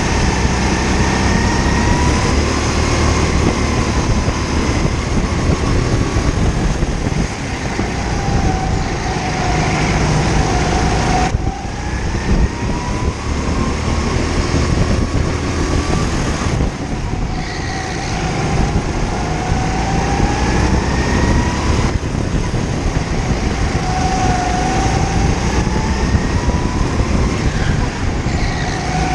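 Kart engine heard from onboard the kart, its pitch repeatedly rising and falling as the driver accelerates and lifts off through the corners of a lap, with brief drops in level where the throttle is released.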